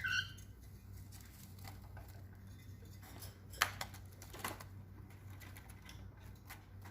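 An African lovebird gives a short chirp at the start, followed by scattered light clicks and taps, with two sharper clicks about midway.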